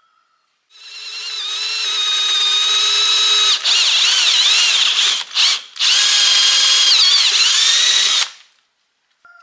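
Electric drill running, winding up to speed and holding a steady whine that dips in pitch now and then as it bites. It stops briefly about five seconds in, starts again, and stops near the end.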